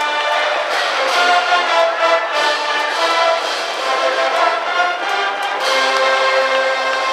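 High school brass band playing a cheering tune in the ballpark stands, trumpets and trombones carrying the melody; about five and a half seconds in it moves into long held notes.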